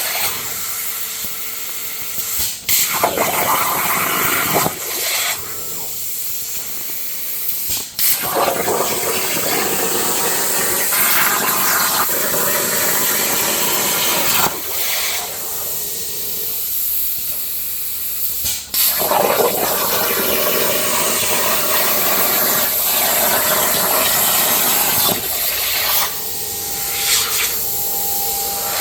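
Plasma torch on a Langmuir Crossfire XR CNC table cutting steel saw-blade plate: a loud, steady hiss that cuts off briefly a few times as the arc stops and restarts between cuts.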